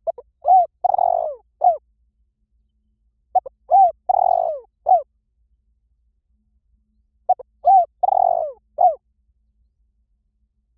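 Spotted dove cooing its territorial call, a lure call for drawing in wild doves. The phrase repeats three times, a few seconds apart: a couple of short coos, a longer wavering coo, then a short closing coo.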